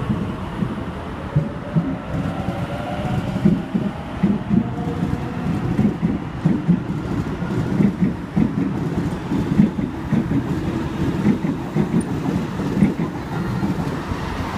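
Electric suburban train pulling out of the platform. A motor whine glides up in pitch over the first few seconds, then the wheels clatter rhythmically over the rail joints as the train gathers speed.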